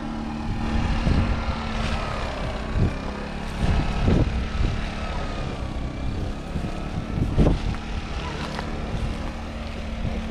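Four-cylinder tractor diesel engine running at a steady speed, with a few brief low thumps about four and seven and a half seconds in.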